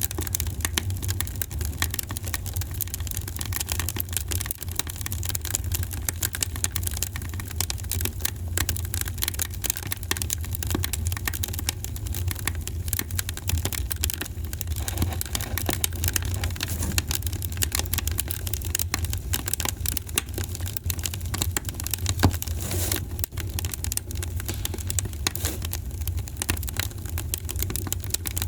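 Wood fire crackling in a fireplace: a dense, steady stream of small pops and snaps over a low rumble, with one louder pop about three-quarters of the way through.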